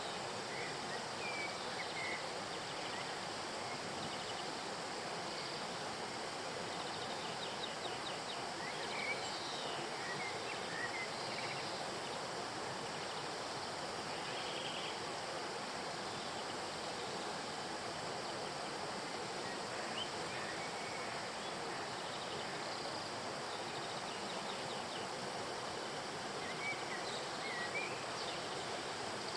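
Stream water flowing steadily, a constant rushing wash, with a few short high chirps of small birds now and then.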